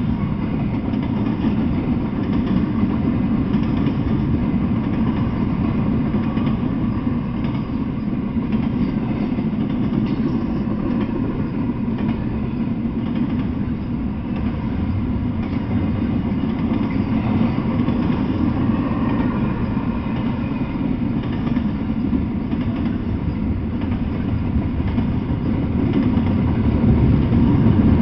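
Double-stack intermodal container freight train's well cars rolling past, a steady rumble of steel wheels on rail, growing a little louder near the end.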